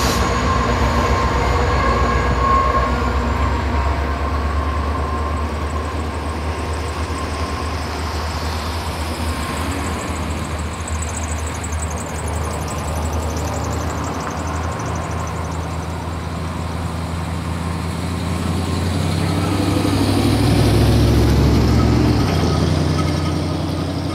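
Union Pacific intermodal stack train rolling by out of sight: a steady rumble of freight cars on the rails. A deeper engine drone swells to a peak about twenty seconds in and then eases off.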